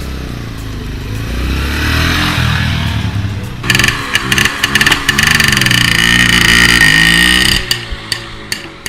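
Motorcycle engine running and being revved, its pitch rising and falling again and again. It gets louder and harsher a little under four seconds in, then drops back near the end.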